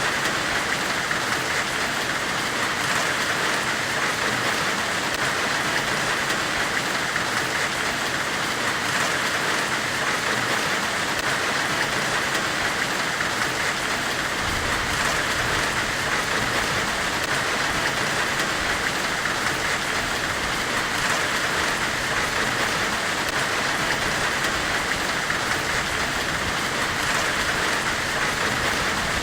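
Steady, unbroken forge hiss, like the rushing of a forge fire during forge welding, loudest in the upper-middle range. A faint low rumble joins it about halfway through.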